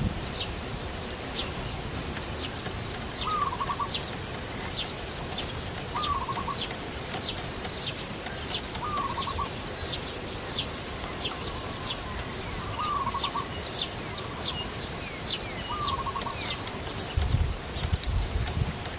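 Birds calling outdoors: a high, short chirp repeated about twice a second, and a lower call ending in a brief trill about every three seconds. Low rumbling comes in near the end.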